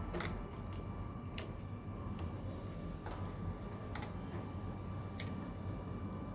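Scattered light clicks and taps, roughly one a second, from hand tools and metal parts being handled while a new water-heater thermostat is fitted, over a steady low hum.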